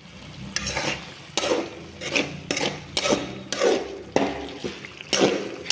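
Utensil stirring chicken in a cooking pot, scraping and knocking against the pot in a run of quick, irregular strokes.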